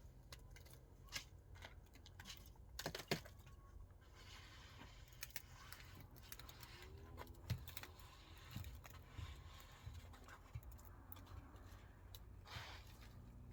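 Faint scrapes and taps of hand masonry work, blocks being set in mortar, with a few sharper knocks about one, three and seven and a half seconds in, over a low steady hum.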